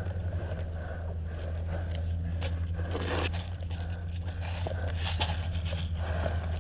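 Close rustling and scraping, like gear and brush rubbing against the camera housing as a player moves, with scattered short scrapes over a steady low rumble.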